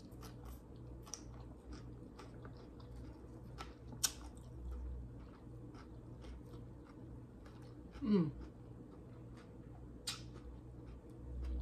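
Close-up chewing and biting of fried chicken, with scattered short wet clicks and smacks. There is a brief falling vocal sound about eight seconds in.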